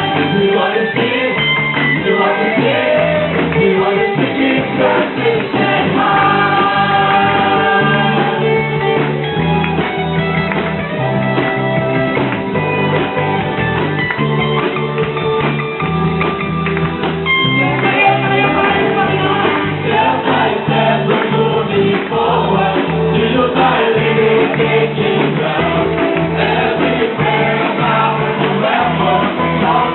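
Voices singing a gospel worship song together over instrumental backing.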